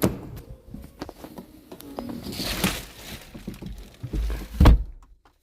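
Scattered knocks and handling noise, with one heavy low thump about four and a half seconds in.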